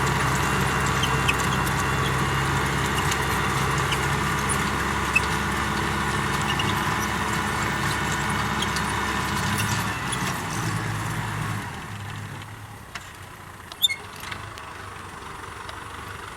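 Kubota M6040SU tractor's diesel engine running steadily while driving a rotary tiller, with a higher whine over the engine note. About twelve seconds in it drops much quieter, and a couple of sharp clicks come near the end.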